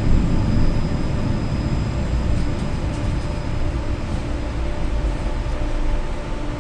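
Tram running along the rails, heard from inside the car: a steady low rumble with a faint high whine, easing off slightly near the end.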